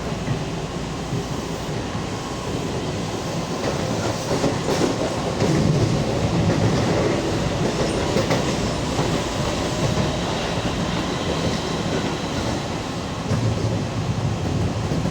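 Keihan electric commuter train running between stations, heard from inside the train: a steady rumble of wheels on the rails with a few short knocks and a faint steady whine, getting louder around the middle.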